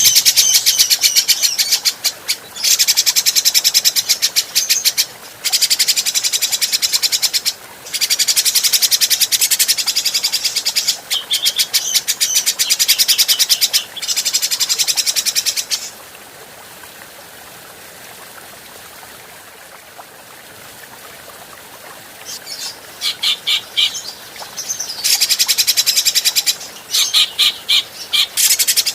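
Cucak jenggot (grey-cheeked bulbul) calling in bouts of very fast repeated high notes, each a few seconds long with short breaks. About halfway through it falls silent for several seconds, then comes back with a few separate notes before the fast runs return.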